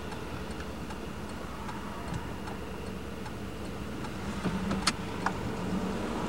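Car heard from inside the cabin, its engine idling low in stop-and-go traffic, with faint light ticking throughout and two sharper clicks about five seconds in. The engine sound picks up slightly near the end as the car starts moving.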